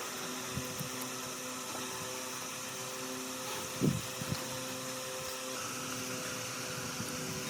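A small electric motor running steadily with a hiss, its pitch unchanging, and a dull knock about four seconds in.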